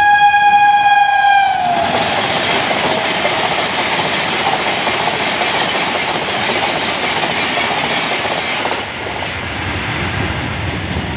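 Locomotive horn held at a steady pitch, sliding down and cutting off about a second and a half in. Then the loud rush and rattle of the Gatimaan Express's coaches passing close at speed, easing near the end as the last coach goes by.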